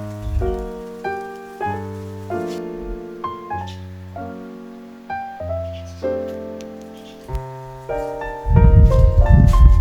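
Solo piano background music, single notes and chords struck one after another and dying away. About eight and a half seconds in, a loud low rumbling noise comes in over the music and stays to the end.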